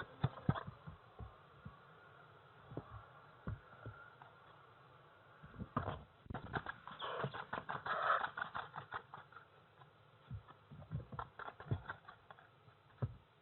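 Barn owlets shuffling and scratching, with many small clicks and knocks. About seven seconds in, one gives a rasping hiss that lasts a couple of seconds.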